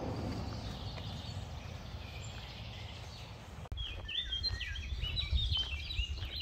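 Wild songbirds chirping over a steady low background rumble. From about four seconds in, a bird sings a quick run of high, rising and falling chirps, the loudest sound.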